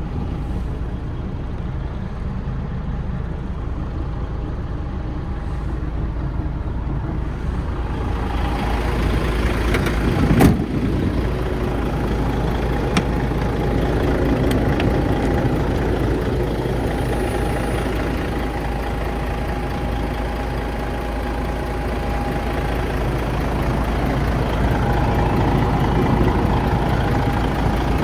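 DAF CF 85.360 truck's diesel engine running steadily at idle, with one short sharp loud burst about ten seconds in.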